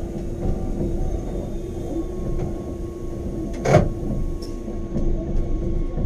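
Electric rack-railway train running with a steady rumble and a steady motor hum. A single loud clunk comes a little past halfway.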